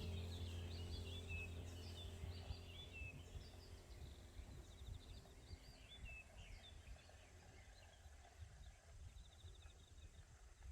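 Small birds chirping in woodland, many short high calls that thin out toward the end, with a couple of brief rapid trills. A low steady hum fades away over the first few seconds.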